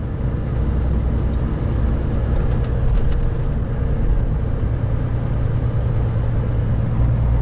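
Semi truck's diesel engine running steadily as the truck slows down.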